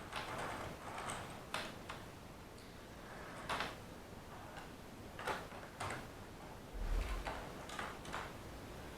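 Hornby OO-gauge model train running on sectional track, giving a handful of irregular light clicks as it goes, with a brief low thump about seven seconds in.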